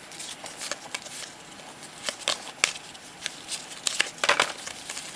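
Football trading cards being handled and flipped through, with scattered short clicks and light rustling as cards slide over one another.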